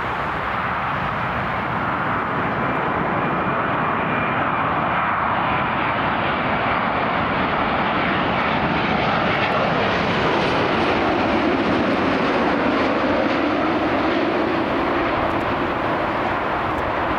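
Jet airliner engines passing, a steady loud rushing that swells a little toward the middle and eases near the end, with a lower tone that slides down in pitch in the second half.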